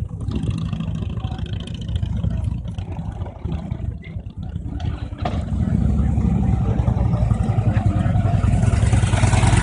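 Motorcycle engine rumbling at low revs, getting louder about halfway through.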